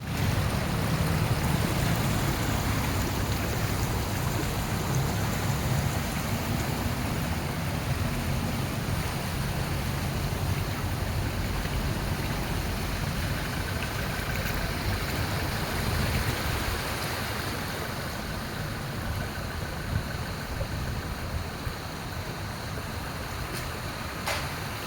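Steady rushing of floodwater. It is a continuous wash of noise that eases slightly in the second half, with a single sharp click near the end.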